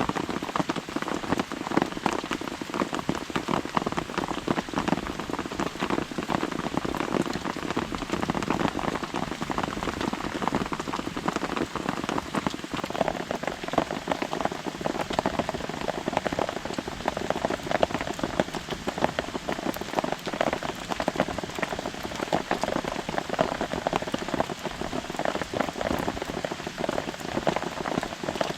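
Steady rain pattering on a camping tarp overhead, a dense, even patter of many drops.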